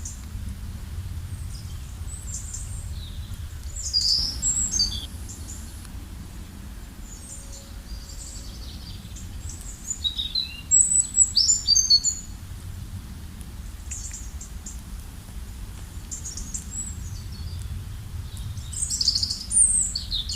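Wild birds singing and calling in short, high chirps and trills, in loose clusters, with the loudest run about ten to twelve seconds in, over a steady low rumble.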